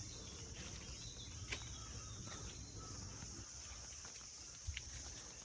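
Steady high-pitched chorus of insects chirring, with a few faint clicks over a low rumble.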